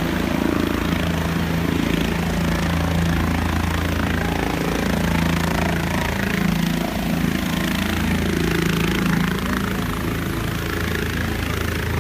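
Police helicopter running on the ground just after landing: a steady engine and rotor hum that swells and eases slightly.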